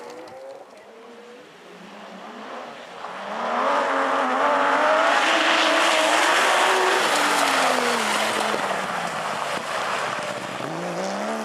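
Porsche rally car's flat-six engine coming through at speed: it grows loud about three seconds in and stays loud for several seconds. The note then falls in pitch as the car goes by and climbs again near the end as it accelerates away.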